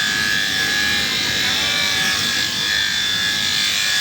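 Electric sheep-shearing handpiece running with a steady whine as it cuts through fleece.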